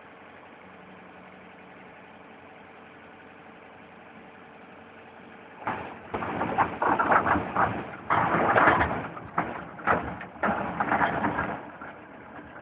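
Forklift truck running with a steady idling hum. About six seconds in, loud irregular clattering and knocking starts as the bin rotator and gripper work, and it eases off near the end.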